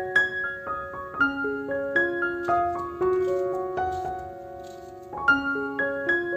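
Soft background piano music: a slow melody of single notes, with one note held for about two seconds near the middle.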